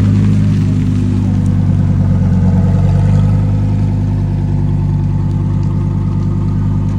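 A car engine running loudly at a steady speed, its pitch holding level throughout.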